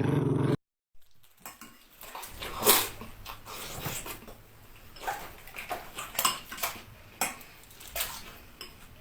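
A dog growling for about half a second, then a cut; after it comes a loose series of sharp knocks and clatters.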